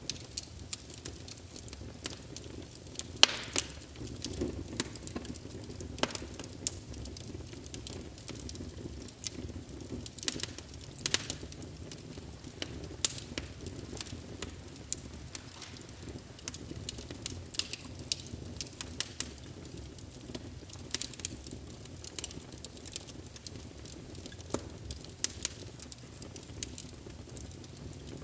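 Wood fire in a fireplace crackling, with irregular sharp pops over a steady low rumble of burning; one louder snap about three seconds in.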